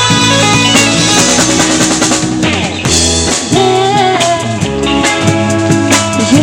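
Live rock band playing an instrumental passage, the drum kit prominent over bass notes and a melodic guitar line.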